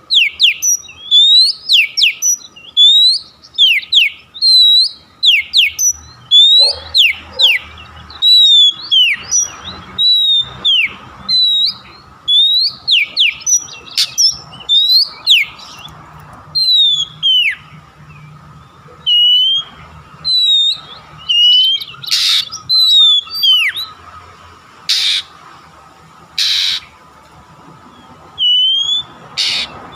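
Oriental magpie-robin calling: a quick series of short, loud whistled notes, each rising and then sweeping sharply down. A few harsh, rasping notes come in the second half.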